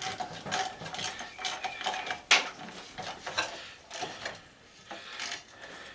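Irregular metallic clicks and clinks of hand tools and metal parts during disassembly of an old belt/disc sander, with one sharper click a little over two seconds in.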